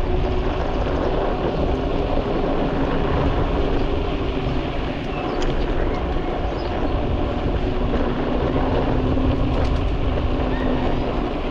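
Wind rumbling on the microphone of a bicycle-mounted camera while riding, with steady tyre and road noise and a faint hum that comes and goes.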